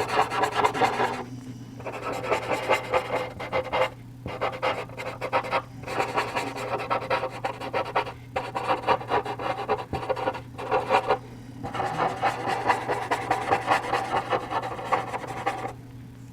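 Paper blending stump rubbing charcoal into charcoal paper in quick small circular strokes, a dry scratchy rasp broken by a few short pauses, stopping shortly before the end.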